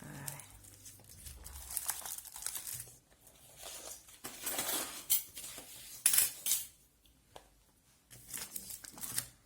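Paper and card craft pieces being moved about and set down on a table: rustling, with a few sharp clicks, the loudest about six seconds in.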